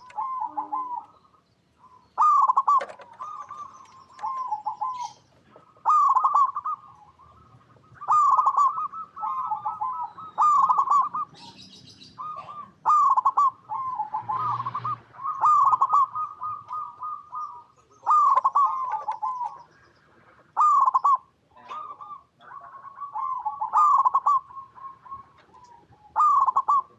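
Zebra doves (perkutut) singing: repeated short, rolling coo phrases, about one every two to three seconds, sometimes overlapping as if more than one bird is calling.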